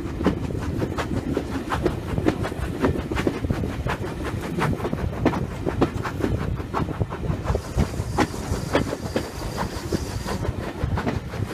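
Railway carriage running along the line, heard from an open window: a steady rumble of wheels on rail with irregular clicks and knocks from the track. A high hiss joins for about three seconds near the end.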